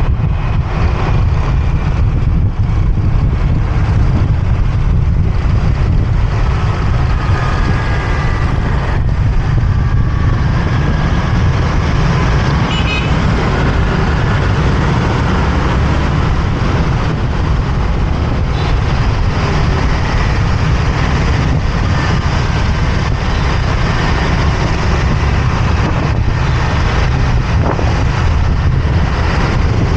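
Steady low rumble of a motorbike riding through city traffic, with surrounding vehicles' engines, and horns tooting now and then, most clearly around seven to ten seconds in.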